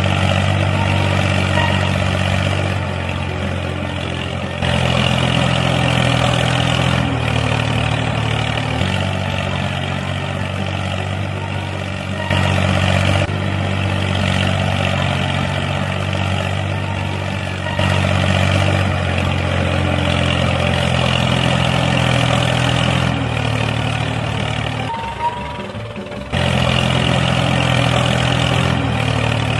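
Tractor engine running steadily at idle, its note and level jumping abruptly every few seconds.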